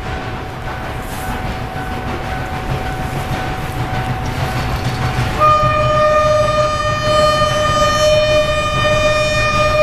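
SY 2-8-2 steam locomotive with a low rumble that grows louder. About halfway through, its steam whistle starts suddenly and holds one steady, piercing note; a fainter steady tone sounds before it.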